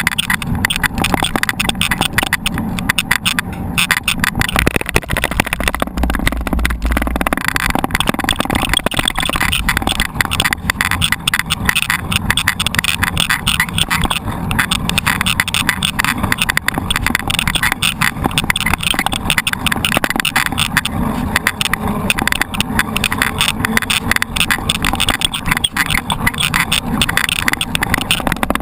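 Riding noise from a mountain bike heard from an on-board camera: a steady rush of wind on the microphone with constant rattling and clicking from the bike over rough ground.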